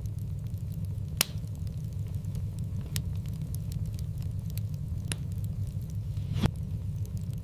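Wood fire in a fireplace crackling over a steady low rumble, with four sharp pops standing out.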